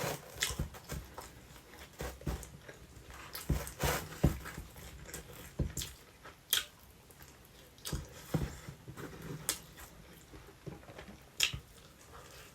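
Close-miked chewing and biting of pizza: irregular wet mouth smacks and clicks, several a second at uneven spacing.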